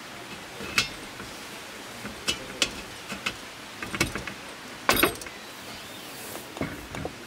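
Scattered sharp clicks and knocks of objects being handled, the loudest a quick double knock about five seconds in, over a steady background hiss.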